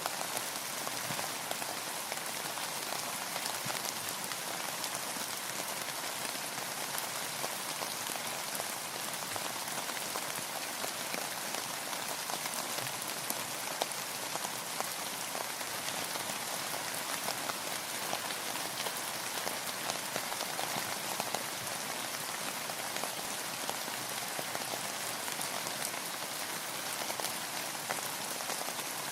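Steady rainfall: an even hiss of rain, thick with many small individual drop ticks, unchanging in level.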